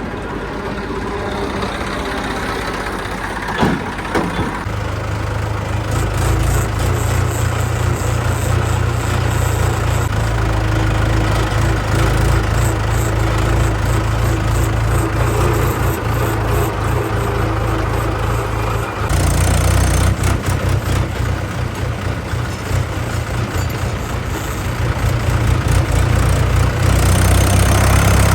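Heavy diesel machinery engine running under load, its low running sound growing louder about five seconds in and again near the end. A short knock comes a little under four seconds in.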